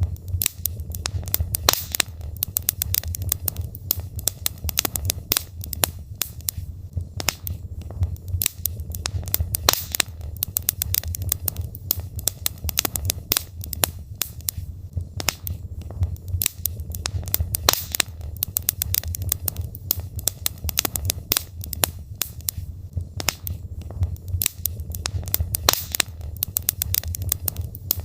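Wood fire in a fireplace crackling, with frequent sharp pops and snaps from the burning logs over a steady low rumble of the flames.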